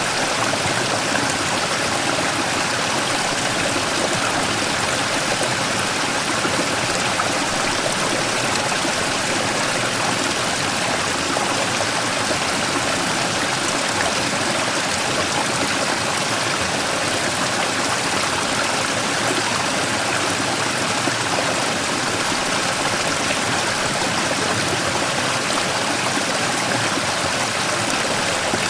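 Mountain stream rushing and splashing over a large rock in a small waterfall, a steady, even flow of water with no change.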